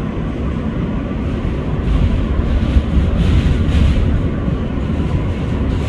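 R143 subway car running along the track, heard from inside: a steady rumble of wheels on rail and traction motors that grows louder about two seconds in.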